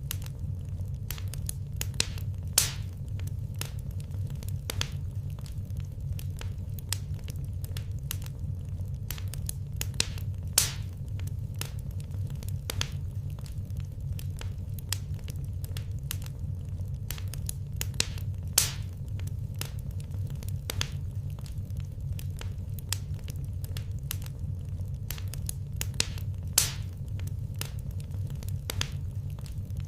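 Wood fire crackling: a constant scatter of small snaps over a steady low rumble, with a louder pop about every eight seconds.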